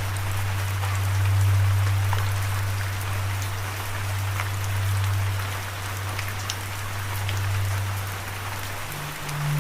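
Steady rain falling, with scattered individual drops ticking. Under it runs a low held tone that steps up in pitch near the end.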